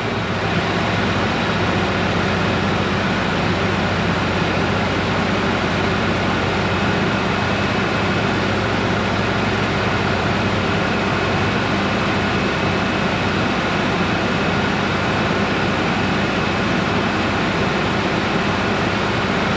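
A 1996/97 Ford Ranger's 2.3-litre four-cylinder engine running steadily at a fast idle, just rebuilt with a replacement cylinder head.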